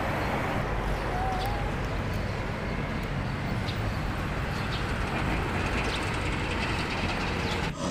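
Steady rushing, rumbling noise with a few faint short chirps over it.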